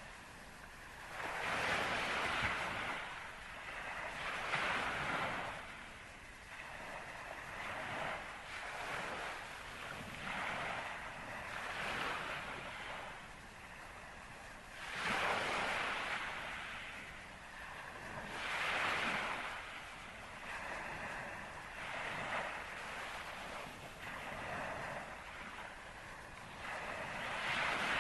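Waves washing in repeated swells, each rising and fading every two to four seconds, with wind on the microphone.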